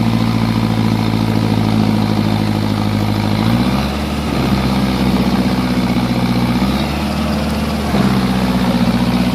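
Tractor engine running steadily. About three and a half seconds in, and again near seven seconds, its note changes and the sound briefly dips before it returns to the steady run.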